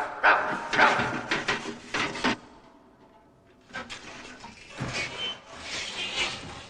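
A dog scrabbling and straining to squeeze through a narrow gap, in irregular bursts with a lull about midway.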